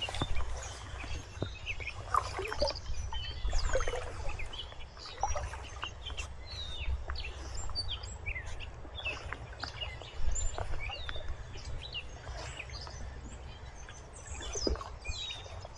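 Several small birds chirping and singing in short, quick notes, over a steady low rumble.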